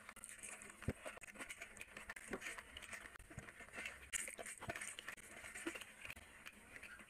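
A person eating rice and curry by hand: wet chewing and smacking mouth sounds with irregular small clicks, and soft squelches as fingers mix rice and curry on a tray.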